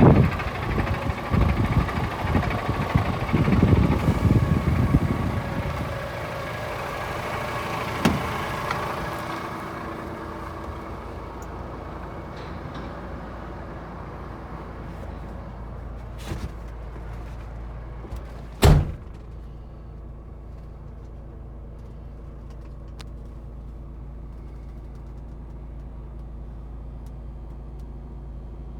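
DAF CF440 tractor unit's 440 bhp Paccar diesel engine running at idle, loud and rough at first, then settling to a quieter steady hum. A single loud knock, with a smaller one shortly before, comes about two-thirds of the way through.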